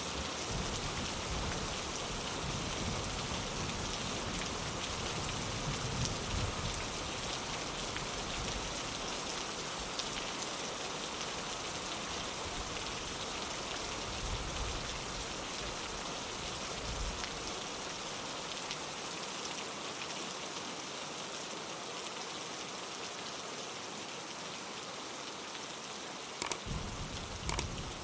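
Steady rain falling on a window pane, an even hiss of drops. An uneven low rumble sits beneath it through the first half, and two sharp taps come near the end.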